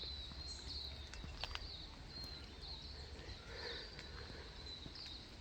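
Faint forest ambience with small birds giving short, high chirps over and over, and a few soft clicks.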